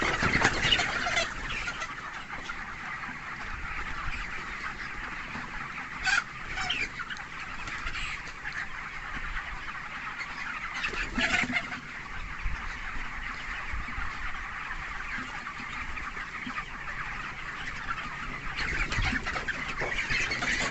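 A flock of 23-day-old broiler chickens, a steady mass of overlapping peeps and clucks, with a few louder calls standing out about a second in, around six and eleven seconds, and near the end.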